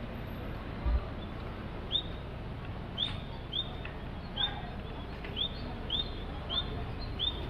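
A small bird chirping repeatedly, short high notes about every half second to a second, over a steady background hum. A low thump about a second in.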